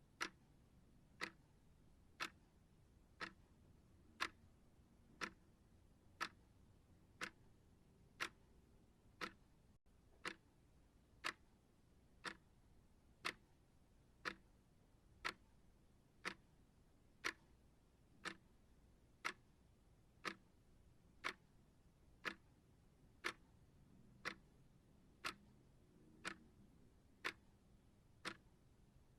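Timer ticking steadily, one sharp tick a second, like a clock's second hand.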